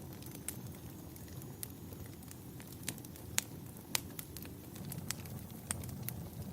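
Campfire burning: a steady low rumble of flames with irregular sharp crackles and pops of the burning wood, two of them louder a little past halfway.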